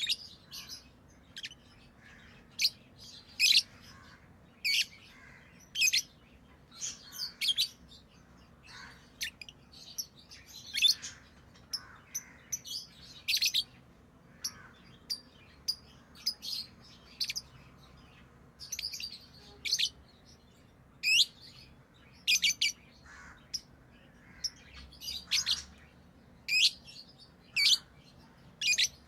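Pet lovebirds chirping: short, high-pitched chirps, irregular, one or two every second or so.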